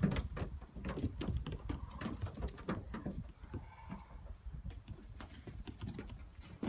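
Small goat hooves tapping and clattering on the metal body of a van, many quick irregular knocks as Nigerian Dwarf goat kids jump and skip about on it.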